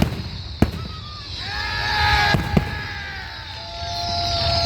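Aerial fireworks going off: several sharp bangs, one at the start, one under a second in, a close pair past the middle and one at the end. Between them come steady whistling tones and a hissing crackle.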